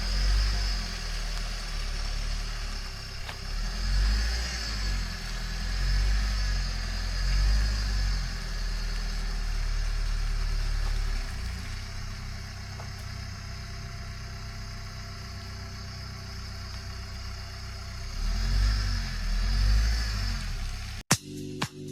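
A motor vehicle's engine running, its speed rising and falling in several swells, with a steadier stretch in the middle. Near the end it cuts off suddenly.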